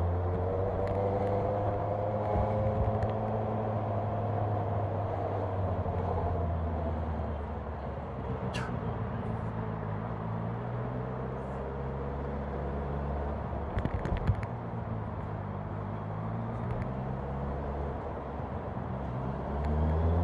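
Honda CB650R's inline-four engine running at low speed. Its pitch eases down over the first few seconds, holds steady, then climbs again near the end as the bike picks up.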